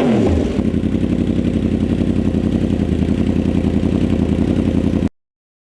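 2025 Yamaha R1's crossplane inline-four running through a freshly fitted SC Project titanium exhaust: a rev blip dropping back at the start, then a steady idle. The sound cuts off about five seconds in.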